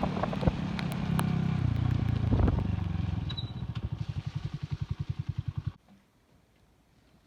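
Classic Earl 150 cafe racer motorcycle engine running down to a lumpy idle of about ten even pulses a second, then cutting off suddenly near the end as it is switched off.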